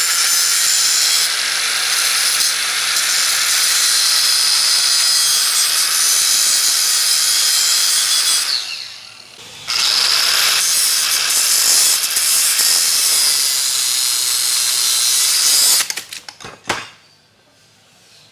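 Angle grinder with a cut-off disc cutting through welded steel axle brackets: a loud, steady, hissing screech of metal cutting. About halfway through it winds down briefly, then bites again. Near the end it cuts off suddenly with a few sharp knocks, the cut-off disc failing.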